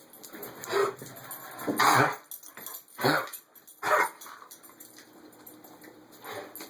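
Black Labrador retriever coughing with kennel cough: four coughs in the first four seconds, the loudest about two seconds in, then only faint sounds.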